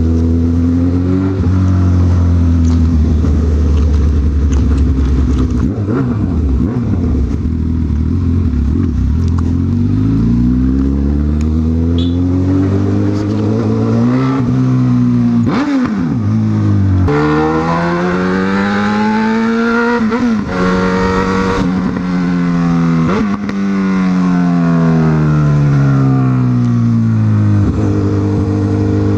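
Honda CB1000R inline-four engine on the move, its note rising as it accelerates and dropping between rises. A long, slowly falling note follows as the bike slows off the throttle, picking up again near the end.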